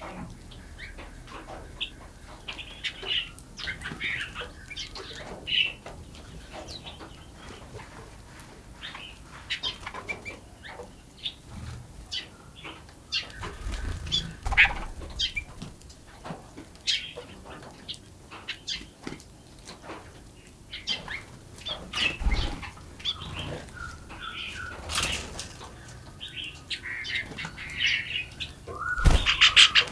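Small birds chirping in short bursts, mixed with many quick taps and wing flutters, and a few low thuds. Near the end comes a rapid run of strokes.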